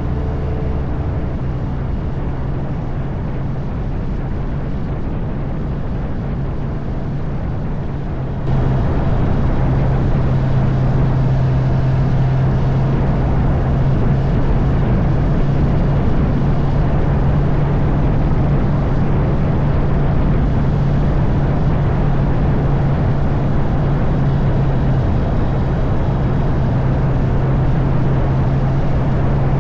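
Honda CB650R's inline-four engine humming at a steady cruise, mixed with heavy wind and road noise. The sound steps up abruptly about eight seconds in and then holds steady.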